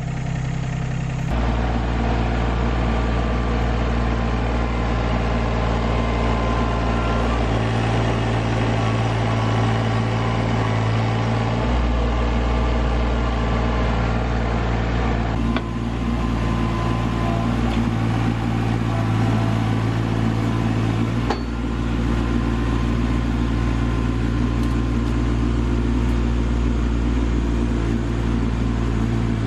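Rural King RK25 subcompact tractor's diesel engine running steadily at working throttle, its note stepping up and down several times as the load on it changes while it works with the forks.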